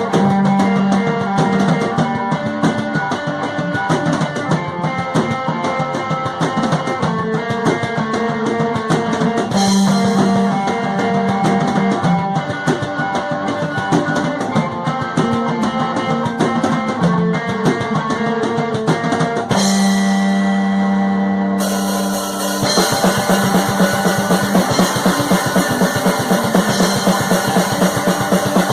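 Rock band music with drum kit, bass drum and guitar playing a steady beat. About 22 seconds in it gets louder and fuller, with busier cymbals.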